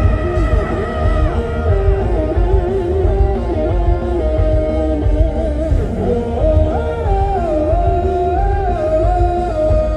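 Live rock band playing loud through a PA: drums, bass and guitars, with a melodic lead line that slides between held notes.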